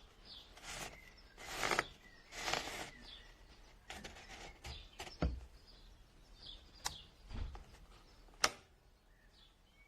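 Faint bird chirps, with two rustling noises early on and several sharp clicks or knocks.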